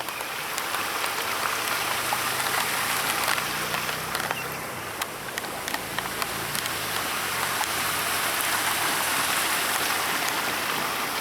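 Creek waterfall: water pouring over the top of the fall with a steady, even rushing hiss.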